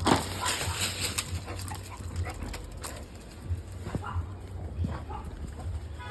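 A dog whimpering, among scattered clicks and knocks, with a sharp knock right at the start.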